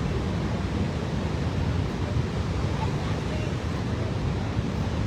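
Steady rushing roar with a heavy low rumble and no distinct events.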